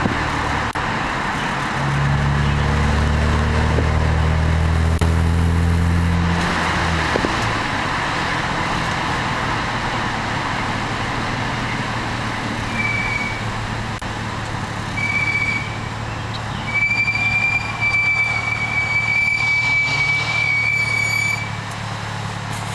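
BMW 335i's turbocharged inline-six through an Eisenmann Race exhaust, heard from the passenger window: a deep drone under throttle for the first several seconds, then easing off to a low steady hum. From about halfway in a high, thin squeal comes in short bits, then holds for several seconds near the end.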